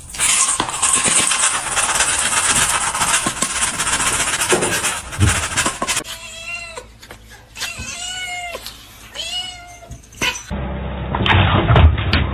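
A loud, steady hiss-like noise for about six seconds. Then a domestic cat meows several times, each call rising and then falling in pitch.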